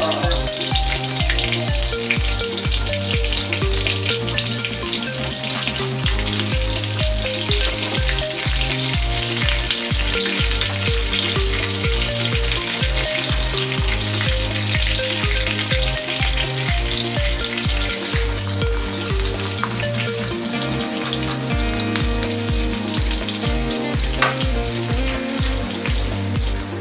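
Food sizzling and crackling as it fries in hot oil, under background music with a steady beat.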